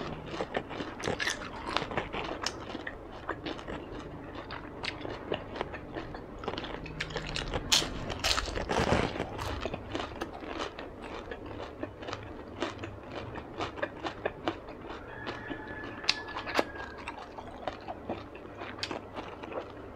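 Close-up chewing of a crispy deep-fried spring roll (chả giò), with many small crunches and crackles scattered throughout.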